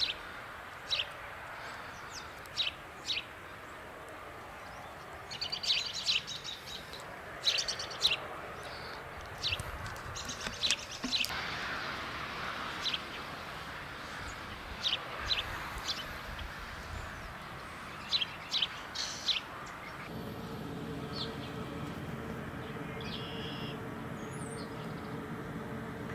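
Songbirds chirping in short, high calls, scattered through the first two-thirds over a steady hiss. About two-thirds of the way in, a steady low engine hum starts and runs on.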